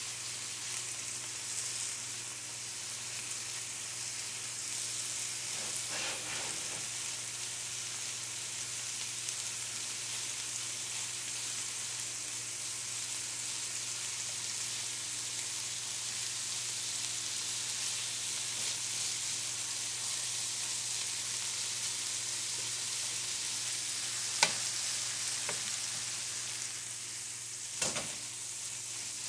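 Marinated pork and napa cabbage sizzling steadily in a frying pan as they stir-fry. Two sharp clicks near the end.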